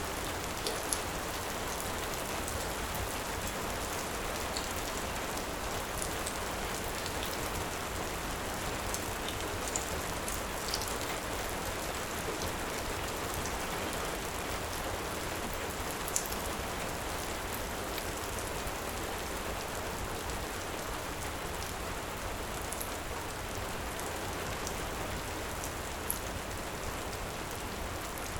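Heavy rain falling in a steady hiss, with a few sharp crackles from a wood fire here and there.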